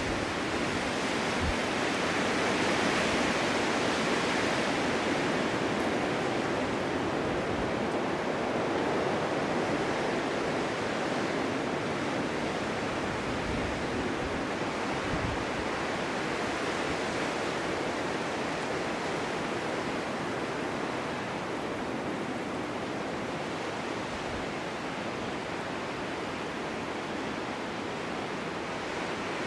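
Snowstorm wind blowing snow, a steady hiss that swells gently a few seconds in, then slowly eases.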